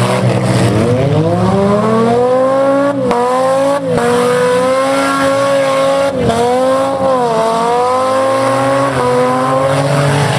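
Demolition derby cars' six-cylinder engines revving hard; the pitch climbs over the first couple of seconds, then holds high with a dip and recovery around seven seconds in. Sharp crunches of cars ramming each other come about three, four and six seconds in.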